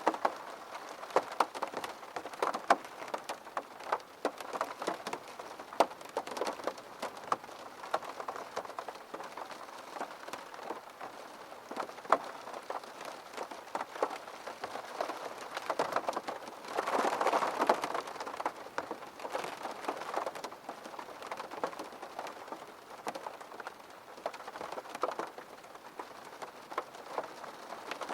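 Steady rain on a window pane, with many separate drops ticking sharply on the glass over the hiss of the rainfall. About two-thirds of the way through, a louder rush of rain lasts about a second.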